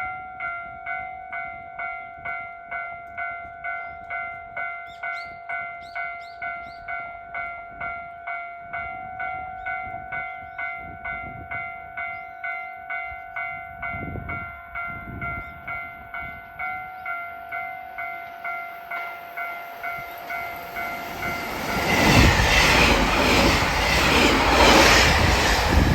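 A level-crossing alarm dinging steadily at about two rings a second. About 22 s in it is drowned out as a JR Hokkaido 789 series electric express train passes close by at speed, loud and rushing.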